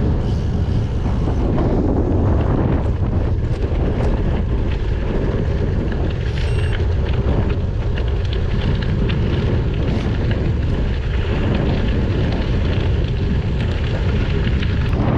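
Steady wind buffeting the GoPro Hero 9's microphone as the bicycle rides along, a constant low rumble with a few faint ticks scattered through it.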